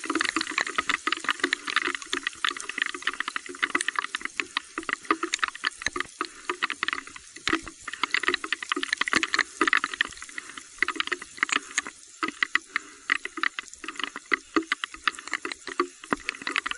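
Heavy rain falling, water spattering, with many sharp drop ticks at an irregular, dense pace.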